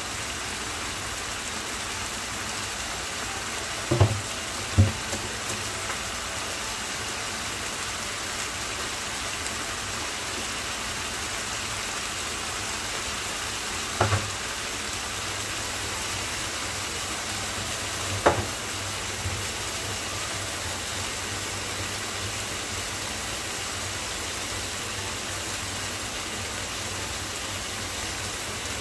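Salmon steaks sizzling steadily in a frying pan. A few short thumps break in: two about four seconds in, one near the middle and one a few seconds later.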